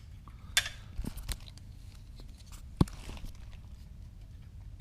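A few separate metallic clicks and knocks from hand tools and exhaust parts being worked on a motorcycle, the loudest a sharp knock a little before the three-second mark.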